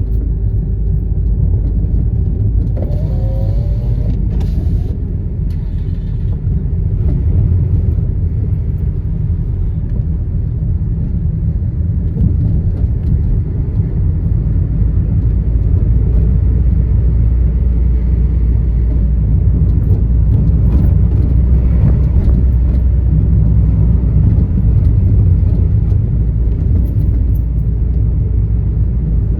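Steady low rumble of a car driving in city traffic, engine and tyre noise heard from inside the cabin. About three seconds in there is a short rising whine with a brief hiss.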